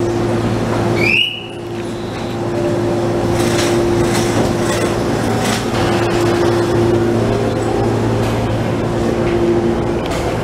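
A stopped JR commuter train at a platform: a steady electrical hum from the train, a short rising tone about a second in, and a few knocks in the middle as the sliding doors close.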